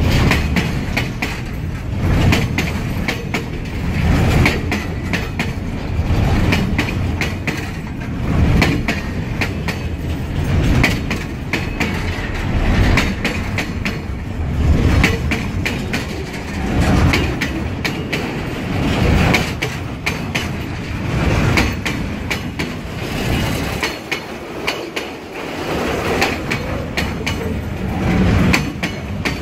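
Container wagons of a freight train rolling past: a steady rumble of steel wheels with clickety-clack over the rail joints, swelling every couple of seconds as each set of bogies goes by.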